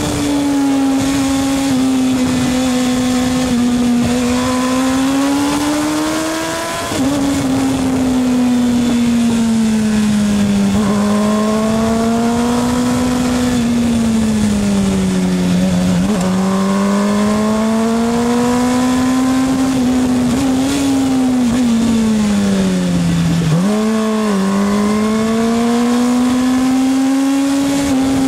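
Racing motorcycle engine running hard, its pitch repeatedly climbing and falling as the throttle opens and closes, with several sudden drops.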